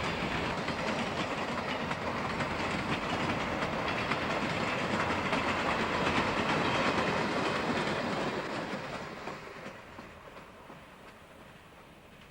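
A train rolling past, its wheels clattering over the rail joints; it grows louder to a peak past the middle, then fades away over the last few seconds as it recedes.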